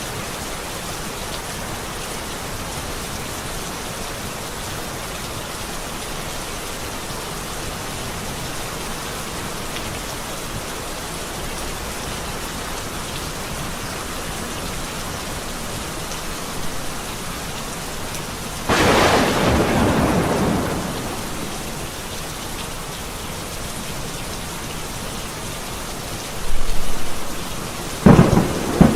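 Steady rain falling, with thunder: a sudden loud thunderclap about two-thirds of the way through that fades away over a couple of seconds, and more sharp cracks of thunder near the end.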